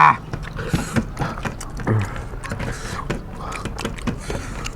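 Eating sounds at a table: scattered short clicks, taps and mouth noises of people eating rice and curry off plates, with a brief voice sound about two seconds in.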